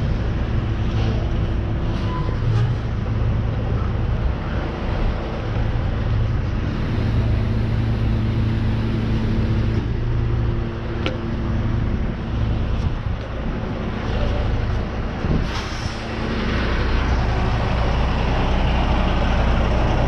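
Tow truck's engine running steadily as it reverses slowly, with a few light clicks. About three quarters of the way through there is a sharp click, after which a louder hiss rises and holds.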